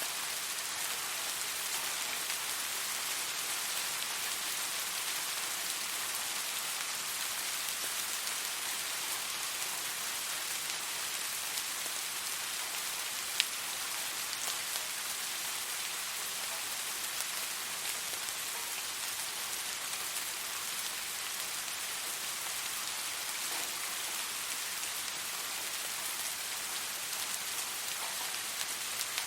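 Steady rain falling, an even dense hiss of drops with no change in strength. One sharp tick stands out about halfway through.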